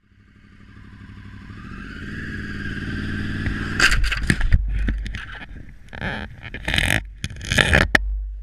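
Motorcycle engine running and growing steadily louder, then about four seconds in a crash: a string of loud impacts and scraping that lasts until near the end.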